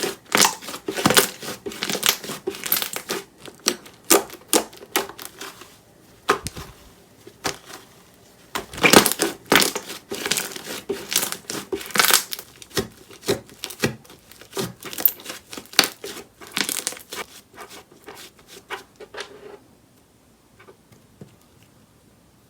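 Grape jelly-foam slime being squeezed and kneaded by hand, giving dense, irregular crackling and clicking pops. The crackling stops a little before the end.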